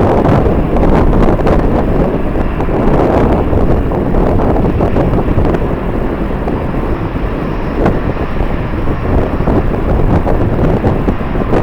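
Strong wind buffeting the camera's microphone: a loud, uneven rumble with scattered crackles and no steady tone.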